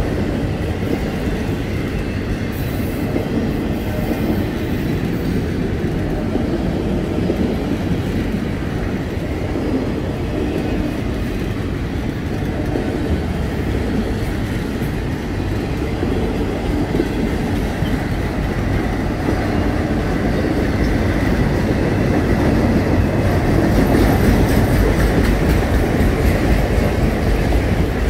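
Long freight train's cars rolling past, a steady rumble with the clickety-clack of wheels over the rail joints, growing a little louder near the end.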